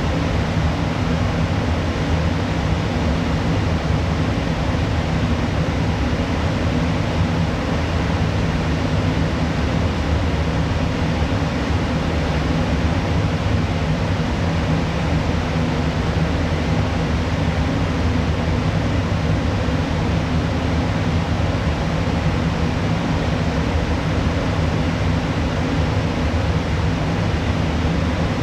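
Steady machinery hum and ventilation rush inside a moored ship, a constant low hum of several tones under an even rush of air.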